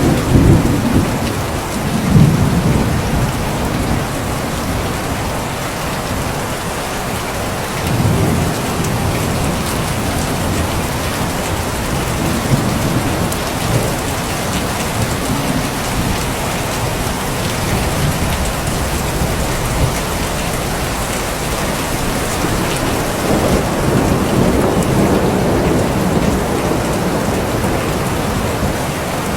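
Steady heavy rain hissing, with low rolling thunder rumbling several times: loudest in the first few seconds, again about eight seconds in and over the last several seconds.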